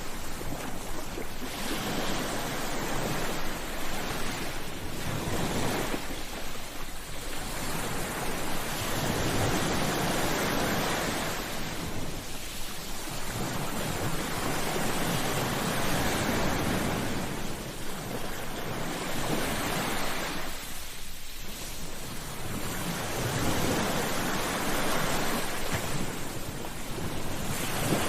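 Ocean waves breaking on a beach, the surf swelling and washing back in slow surges every few seconds.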